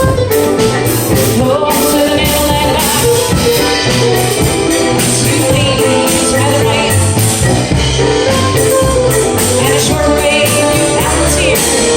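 Live contra dance band playing a dance tune on fiddle, mandolin, keyboard and percussion, with a steady beat and a pulsing bass line.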